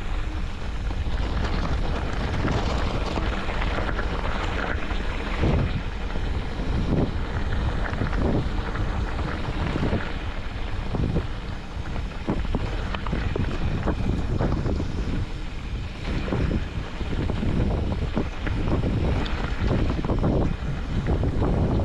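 Wind buffeting the microphone on a moving vehicle, with a steady rumble of vehicle and road noise underneath and irregular gusts and bumps.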